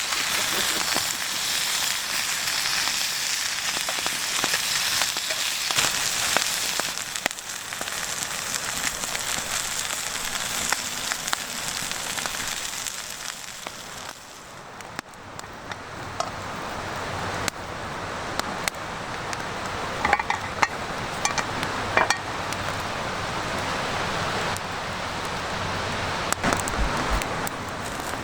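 Food sizzling in a pan over a wood campfire, with the fire crackling under it. The high hiss drops back about halfway through, and a few sharper pops come about two-thirds of the way in.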